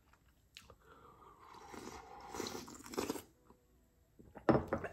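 A person chewing a mouthful of chicken noodle soup, softly, with a light click about half a second in and a short vocal sound near the end.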